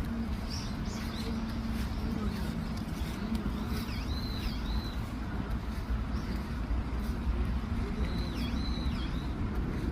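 Birds calling in short, arched, high-pitched notes, most clearly in two groups about four seconds in and again near the end, over a steady low rumble.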